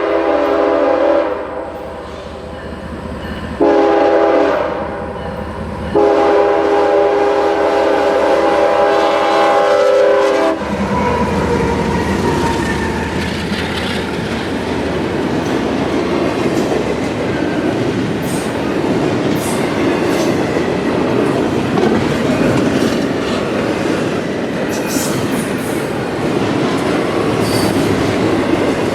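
CSX freight locomotive's horn sounding a chord in blasts, with two short breaks, cutting off about ten seconds in. After that comes the steady rumble and clickety-clack of the freight train rolling past, with a few brief high wheel squeals.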